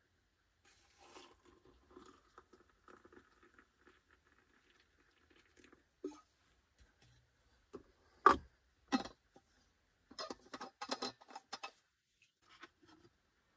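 Liquid poured from a vacuum flask into a stainless steel mug, a faint soft trickle. Later, two sharp knocks and then a run of quick clicks as the flask is handled.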